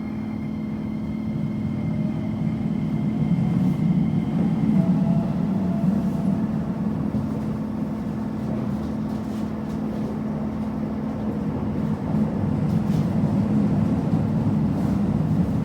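Keikyu electric train at the platform, with a steady motor and equipment hum over rumbling wheel noise. The rumble swells about four seconds in and again near the end.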